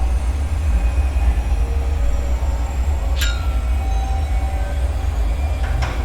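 Dark ambient bunker soundscape: a steady deep rumbling drone with faint, wavering tones, and two sharp clinks, the first about three seconds in with a short ringing tail, the second fainter near the end.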